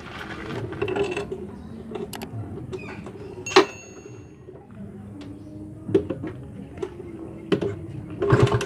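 Kawasaki Ninja RR two-stroke engine idling through a half-baffled silencer: a steady low note, with scattered clicks and one sharp knock about three and a half seconds in.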